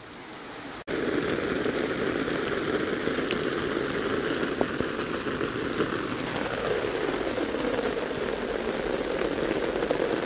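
Heavy rain pouring down steadily, with scattered ticks of individual drops; it turns abruptly much louder about a second in.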